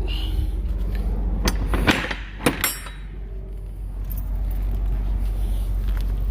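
A steady low rumble under a handful of sharp metallic clanks and knocks from the box truck's rear cargo area, about a second and a half to nearly three seconds in.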